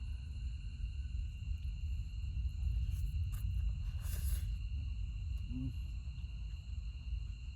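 Night insects, crickets, trilling steadily at a high pitch, over a constant low rumble. There is a brief rustle about four seconds in.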